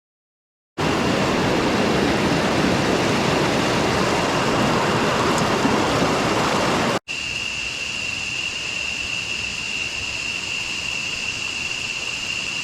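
Rushing water of a waterfall, an even loud roar starting about a second in. After a sudden cut about seven seconds in, the water is quieter and a steady high whine sits over it.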